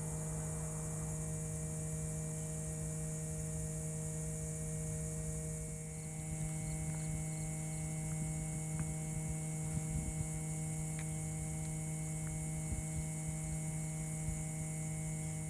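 Steady electrical-sounding hum with a strong low tone and several fainter steady tones above it, over a constant high hiss; a few faint clicks come in the second half.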